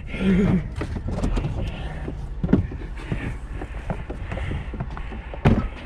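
Irregular knocks and clatter over a steady low engine rumble, with one loud bang near the end.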